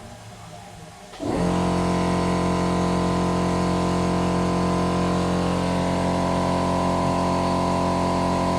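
A small electric motor switches on about a second in and then runs with a loud, steady hum, its pitch and level not changing. It is driving the fuel-system bleed on a diesel swap, while the fuel line is being primed up to the pump.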